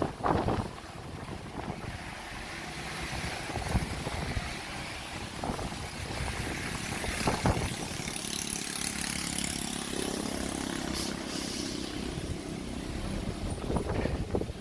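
Heavy earthmoving machinery's diesel engine running, with scattered knocks and a steadier engine tone about eight seconds in. Wind on the microphone.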